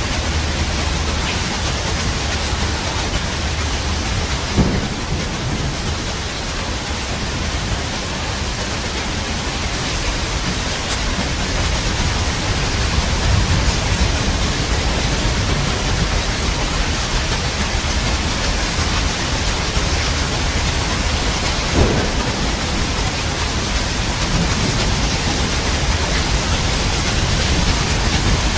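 Heavy steady rain with a low rumble of thunder underneath, and two short sharp cracks, one about five seconds in and one near the end of the second third.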